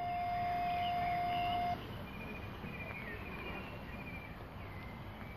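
A steady, even tone held for nearly two seconds, then cut off suddenly, followed by birds chirping and trilling over steady outdoor background noise.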